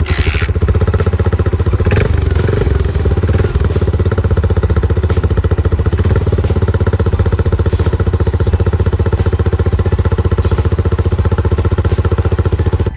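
Yamaha SR400's air-cooled single-cylinder four-stroke engine idling through its exhaust, a steady, even run of exhaust pulses.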